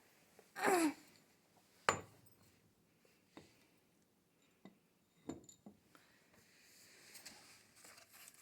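Handling noises: a short squeak that falls in pitch about half a second in, then a sharp clink and a few scattered light taps and knocks.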